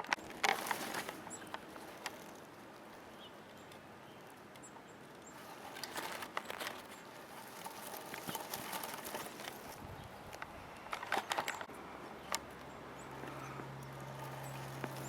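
Scattered bursts of rustling and sharp clicks, with a low steady hum coming in about twelve seconds in.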